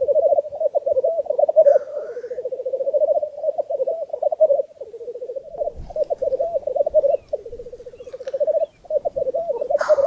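Male black grouse at a lek: a continuous bubbling, cooing song (the rookooing display song), with a short hissing call about two seconds in and a louder hissing call near the end.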